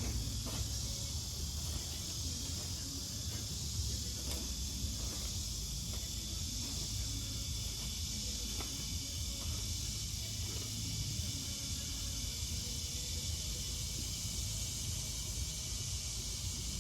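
Evening insect chorus: a steady high hiss of crickets chirring, over a low rumble, with a few faint rustles.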